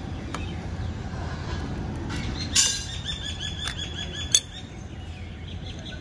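A bird chirping repeatedly for about two seconds, over a steady low rumble, with one sharp click shortly after the chirps.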